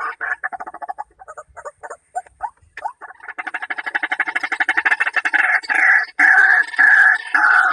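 White-breasted waterhen calling: a rapid run of short notes that thins out after a second, then picks up again about three seconds in and builds into loud, evenly repeated calls.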